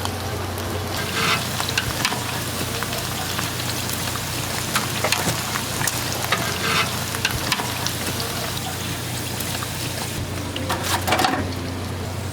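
Fish cakes frying in hot oil: a steady sizzle full of fine crackling pops, with a few louder flurries about a second in, around five to seven seconds, and near the end. A steady low hum runs underneath.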